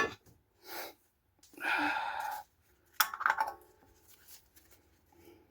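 Metal car parts and tools being handled during wheel hub work: a sharp clink, a short scraping rustle, and a second clink that rings briefly, with a few faint ticks after.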